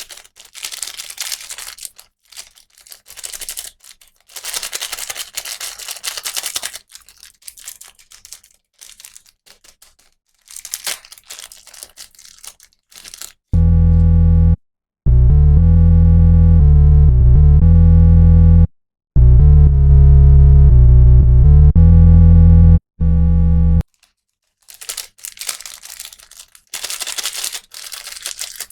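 Plastic packaging crinkling and tearing in irregular rustles. In the middle it is broken by about ten seconds of loud electronic music, which stops and restarts twice in short gaps before the crinkling returns.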